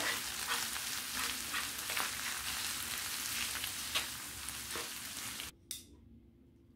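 Ground beef, onion and red pepper sizzling in a frying pan as a spoon stirs in butter, tomato paste and spices, with scraping strokes against the pan. The sizzle cuts off about five and a half seconds in, leaving near silence broken by a single brief click.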